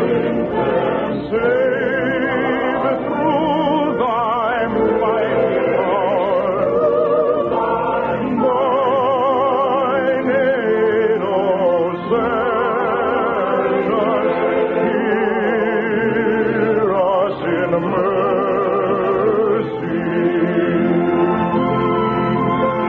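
Choir singing with heavy vibrato, several voices in harmony, heard in the narrow, muffled sound of an old radio recording.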